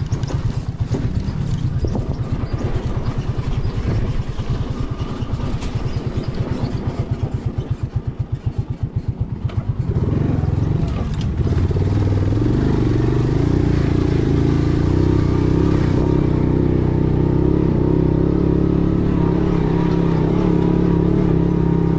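A vehicle engine running at low speed with a distinct pulsing beat, then from about ten seconds in running faster and steadier with a higher, louder tone.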